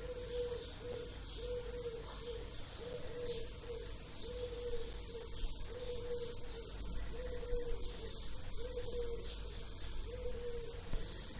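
Birdsong at dawn: a low, short hooting note repeated steadily about once a second, with fainter high chirps of small birds over a low background rumble.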